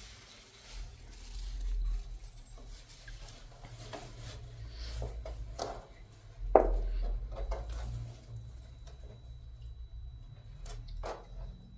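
Scattered knocks and clinks of cooking pots and utensils being handled, with one louder knock about six and a half seconds in, over a steady low rumble.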